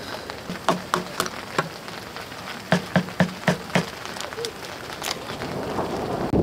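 Raindrops tapping on a tent during a rain shower: about ten separate sharp taps, in two bunches, over a faint steady hiss of rain.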